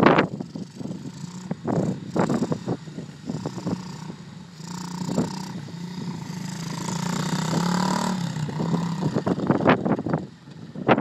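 A small dirt bike engine running for a few seconds, its pitch climbing a little before it fades away, between rough gusty bursts of wind buffeting the microphone.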